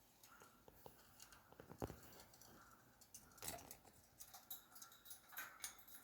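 Faint scratching, crunching and scattered small clicks of a conure's beak picking and chewing at a toy.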